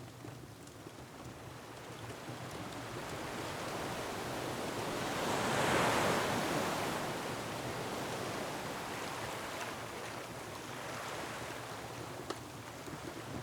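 Ocean surf breaking on a rocky shore, mixed with wind. One wave surge builds to its loudest about halfway through and slowly falls away. There is a single sharp pop near the end.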